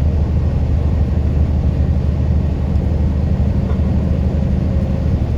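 Semi-truck engine drone and road rumble heard inside the cab while cruising steadily at highway speed.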